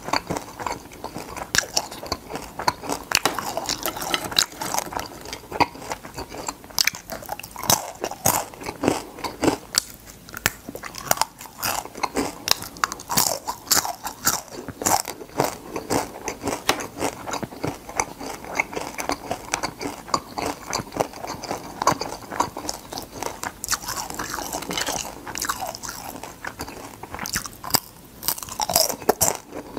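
A person crunching and chewing crisp fried crab pieces: dense, irregular crackles, one mouthful after another.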